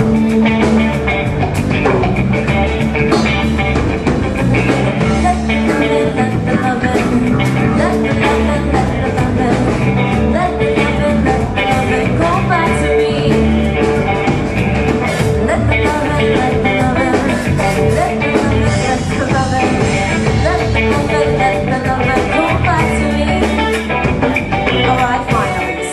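Live rock band playing an instrumental passage with guitar and drums, loud and steady throughout.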